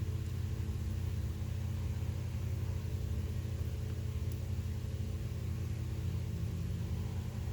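Steady low mechanical hum with a few even tones, unchanging throughout.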